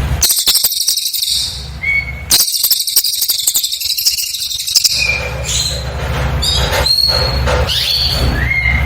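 Cililin bird singing: two long bursts of dense, very high-pitched rapid trilling, then a series of short clear whistles, some sliding upward, over a steady low hum.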